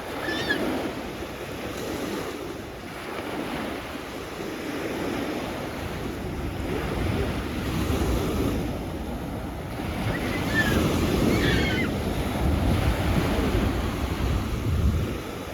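Sea waves breaking and washing up the shore, the surf swelling and easing in slow surges, with wind buffeting the microphone. A couple of brief high chirping calls cut through near the start and again in the middle.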